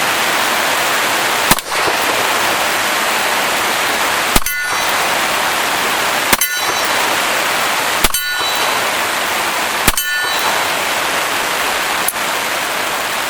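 Five shots from a Cimarron single-action .45 Colt revolver, spaced about two seconds apart, each followed by the ring of a steel target being hit. Steady rain hiss runs underneath, and a faint click comes near the end.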